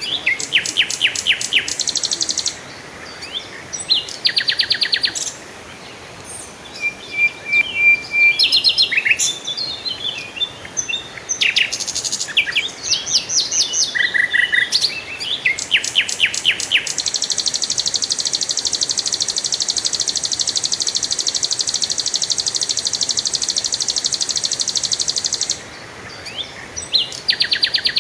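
Songbirds singing in short, fast trilled phrases, repeated again and again, with a long, steady, high buzzing trill held for about eight seconds in the second half.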